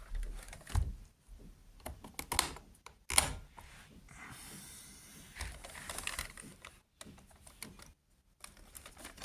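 Irregular plastic clicks and knocks from handling a vacuum cleaner's body and controls, the sharpest about three seconds in, with a few seconds of soft rustling in the middle. The motor is not running.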